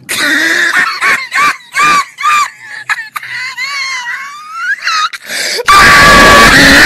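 A very high-pitched voice wailing in short rising-and-falling cries, then, about six seconds in, a much louder distorted scream.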